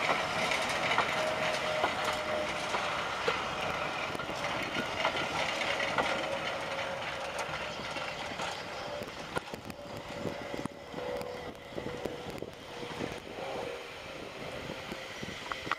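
Vintage passenger coaches rolling past, wheels clicking over the rail joints with a thin steady squeal, fading as the train draws away.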